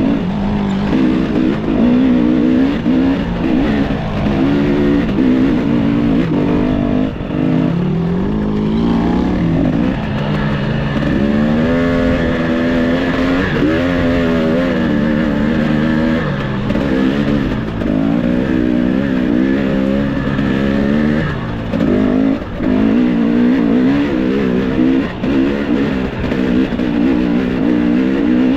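Enduro dirt bike engine revving up and down on the throttle, its pitch rising and falling over and over, with a few brief throttle-offs.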